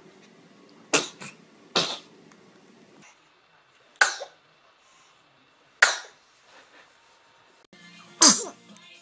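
Babies sneezing: five short, sharp sneezes, each a quick burst, spaced one to two seconds apart, the last the loudest.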